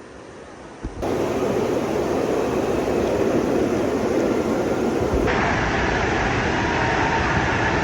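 Loud steady rushing water. It starts abruptly about a second in and changes in tone about five seconds in.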